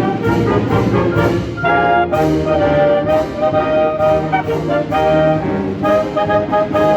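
Concert wind band playing a full passage: brass and woodwinds holding sustained chords over a steady beat of percussion strokes, about two a second.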